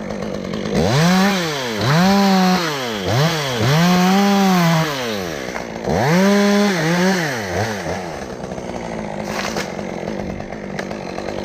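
Two-stroke chainsaw repeatedly run up to full throttle and let back down, about five or six times in the first eight seconds, then running more steadily at a lower pitch.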